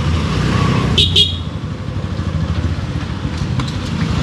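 Motorcycle engine running on the road, with two quick horn toots about a second in.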